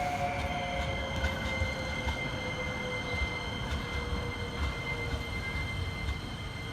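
Tram running on its rails, heard from inside the car, with a motor whine that slowly falls in pitch as it slows and a steady high wheel squeal over a low rumble.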